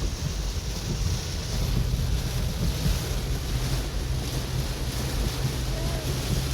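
Steady rushing noise inside a car driving in heavy rain, with a dense low rumble from the engine and road underneath.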